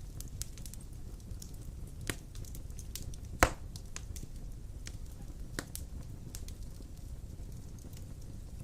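Wood fire burning in a fireplace: a steady low rumble with scattered crackles and one loud pop about three and a half seconds in.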